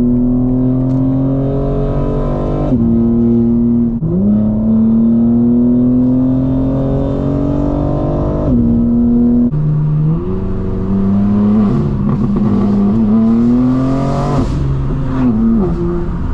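Straight-piped BMW M4 Competition's twin-turbo straight-six accelerating through the gears. Its note climbs steadily and drops suddenly at each upshift, several times over.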